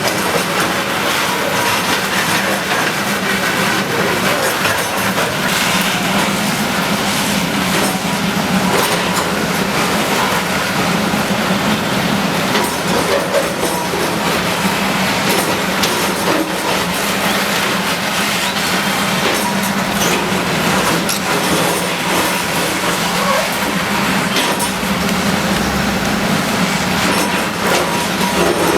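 Bulldozer's diesel engine running steadily at demolition work, with irregular clanks and rattling over a dense wash of noise.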